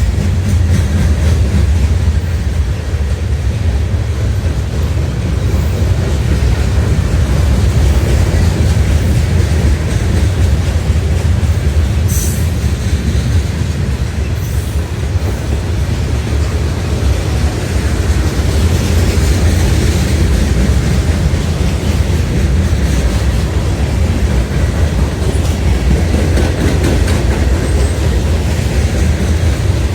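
Freight train rolling past with a steady heavy rumble of railcars on the rails, and a brief high wheel squeal about twelve seconds in.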